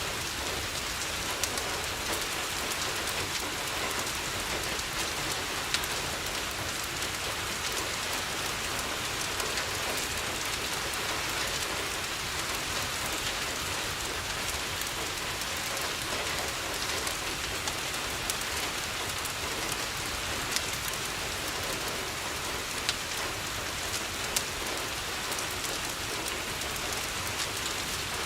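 Steady rain falling on a window, an even hiss, with a sharp tick now and then scattered through it.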